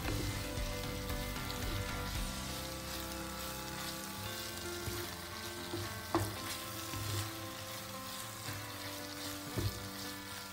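Mushroom Manchurian mixture sizzling in a nonstick frying pan while it is stirred with a wooden spatula, with a couple of sharp knocks of the spatula against the pan.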